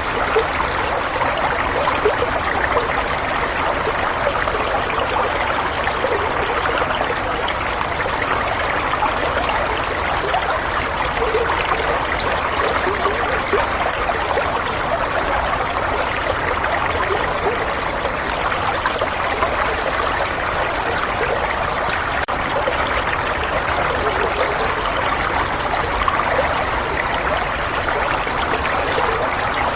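Running water, a steady babbling stream or trickle with small splashing flecks, even and unbroken in level.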